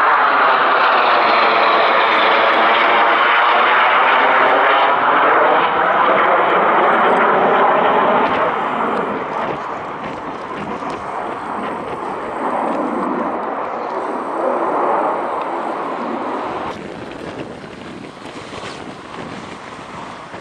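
Military aircraft engines loud as the aircraft passes close by, with a sweeping, shifting tone over the first several seconds, then easing off after about eight seconds and fading further near the end.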